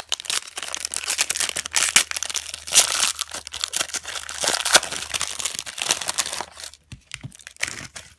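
Trading card pack wrapper being torn open and crinkled by hand, a dense crackling that thins to a few faint rustles near the end.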